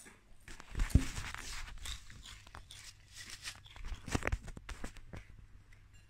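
Potato chips crunching as they are bitten and chewed close to the microphone, in irregular crackles. About a second in there is a loud thump from the phone being handled.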